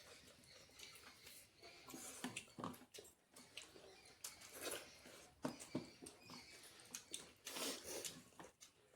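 Faint, irregular chewing and small mouth clicks of a person eating a meal of rice and curries.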